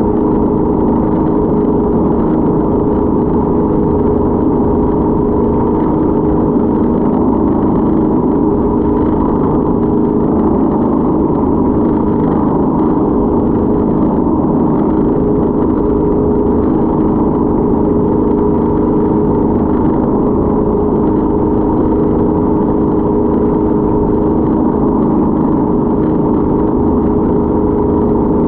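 Speedboat engine running steadily at a constant pitch, a loud unchanging hum with rushing noise underneath.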